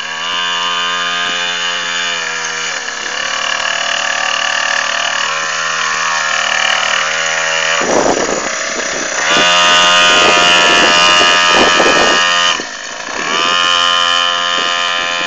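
Small 49cc dirt bike engine running and revving, its pitch climbing and falling with the throttle. It is loudest about two-thirds of the way through, drops away briefly near the end, then picks up again.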